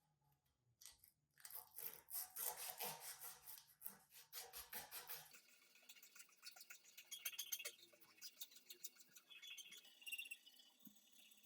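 Rapid hand scrubbing strokes on the rusty metal of an old hand plane, dense scratching for the first five seconds, then lighter and more spaced for the rest.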